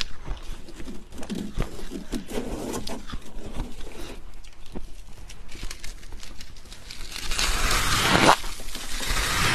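Powdery freezer frost crunching: light scattered crackles and taps, then a loud, dense crunch from about seven seconds in.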